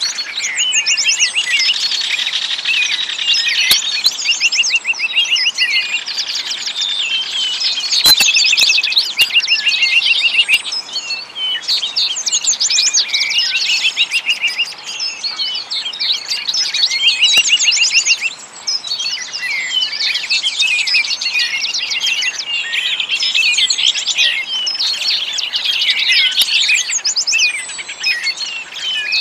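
A chorus of many small songbirds chirping and singing at once, a dense mix of rapid high trills and tweets that overlap without pause.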